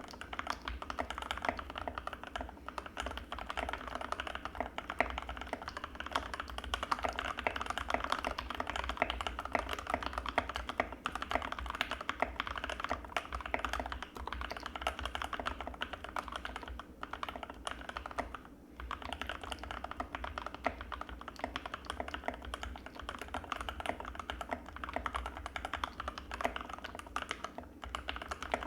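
Anne Pro 2 mechanical keyboard with Gateron Red linear switches being typed on steadily and quickly, a dense stream of key clacks with a brief pause about two-thirds of the way through.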